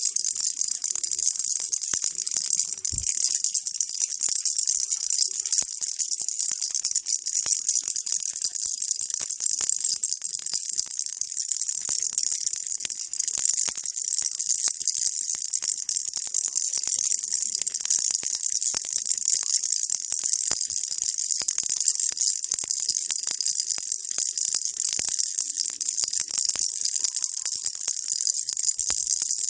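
A baby rattle shaken without pause: a steady, hissy, high-pitched rattle made of countless tiny clicks.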